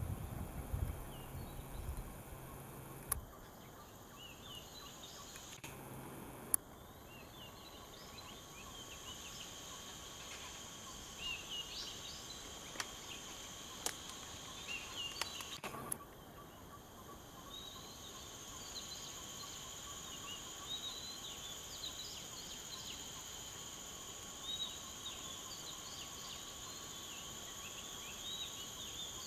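Outdoor ambience of a steady insect drone with many short bird chirps scattered throughout, broken by a few sharp clicks.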